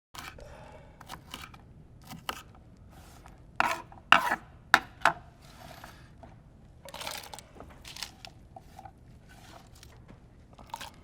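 A string of sharp knocks, clicks and rustles from objects being handled, starting abruptly out of silence, with the loudest cluster of knocks about four to five seconds in.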